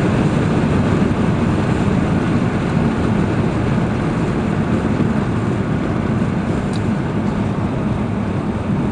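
Audi R8 V10 Plus on the move: a steady rumble of engine and road noise, holding an even pitch without revving.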